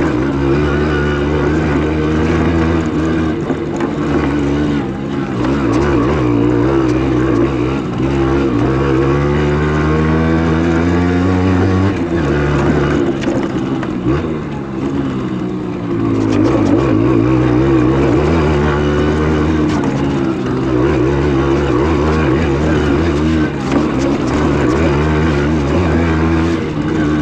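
Simson S51's 50 cc two-stroke single-cylinder engine running under way, its pitch climbing for several seconds and then dropping suddenly about twelve seconds in. It picks up again from about sixteen seconds.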